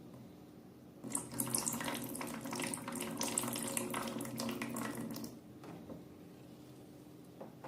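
Running water, as from a tap into a sink, starting about a second in and cutting off after about four seconds.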